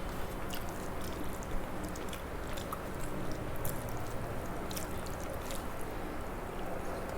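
A person chewing a mouthful of food, with wet, squishy mouth sounds and scattered small clicks.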